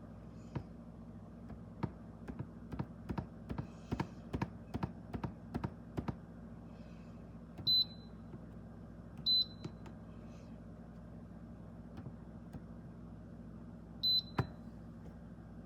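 A quick run of light clicks and taps over the first six seconds, then three short, high electronic beeps spaced out over the rest, the kind of button beeps a digital rice cooker's control panel gives. A single knock follows just after the last beep, over a steady low hum.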